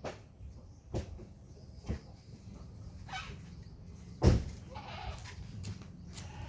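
BMW N42B20 2.0-litre four-cylinder idling unevenly, with sharp knocks about a second apart and a louder one about four seconds in: the stumble of a misfire. A bleating animal calls twice in the background.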